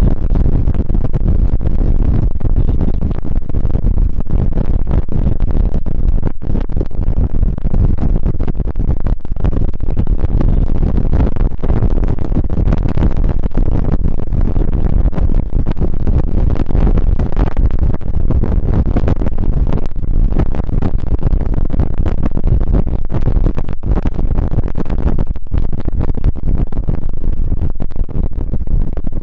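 Motorcycle riding at speed: a loud, steady low rumble of engine and wind rushing over the microphone.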